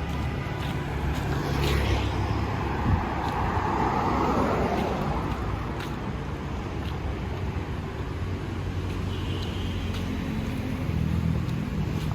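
City street traffic: engines running steadily, with one vehicle passing close a few seconds in.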